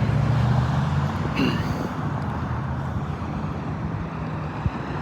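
Motor vehicle engine running with a steady low hum, over street traffic noise; a single short tick near the end.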